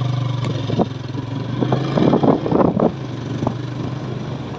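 Motorcycle engine running steadily at a low, even note, with a few short sharper sounds over it about two seconds in.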